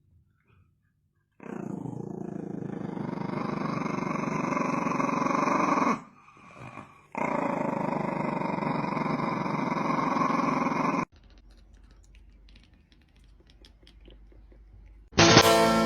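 A pet animal giving a loud, rough, drawn-out growl in two long bouts of about four seconds each, with a short break between them. Guitar music starts near the end.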